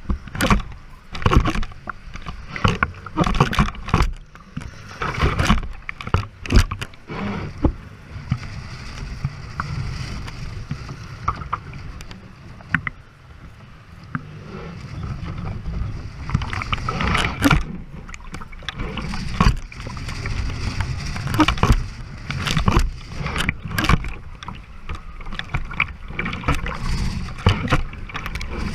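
Strong wind buffeting the microphone and waves splashing against the hull of a small sailboat sailing through high seas, in gusts with sudden splashes throughout.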